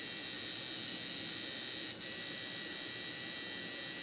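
Unloaded liner tattoo machine running steadily on a tattoo power supply at about 6.9 volts, a high, even electric buzz with one brief dip about halfway through.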